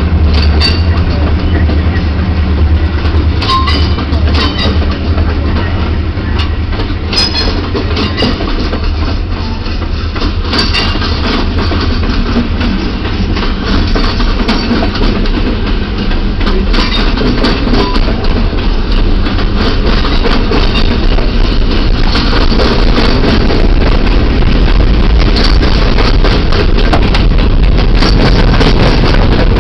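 Freight train rolling past: a heavy, steady low diesel-locomotive drone, with steel wheels clicking over rail joints.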